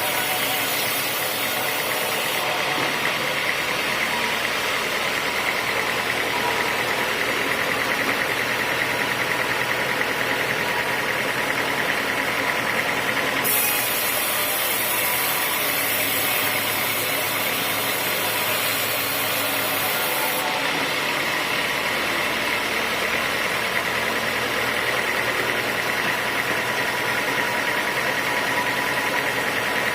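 Sawmill machinery running steadily, a continuous mechanical drone with no breaks.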